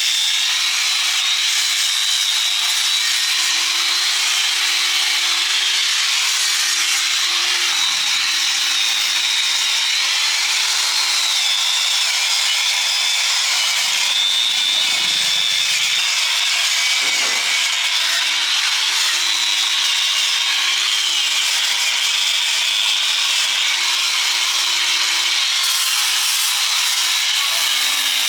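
A handheld electric grinder abrading rusted steel, running steadily while its pitch wavers up and down as the pressure on the work changes.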